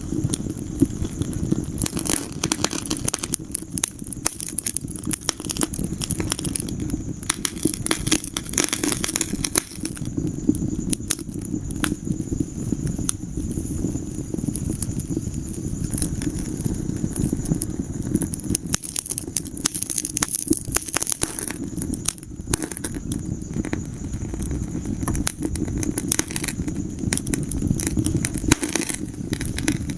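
Wood fire in a fireplace crackling and popping: a constant stream of sharp snaps over a steady low rumble of the flames.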